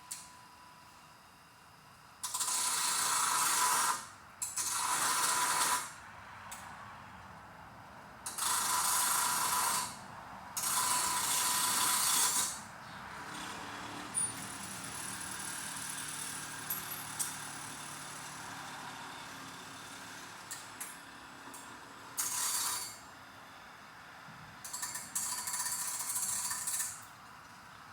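Steel washer being cut down on one side to notch it: six harsh rasping bursts of one to two seconds each, with a quieter steady running sound between them in the middle stretch.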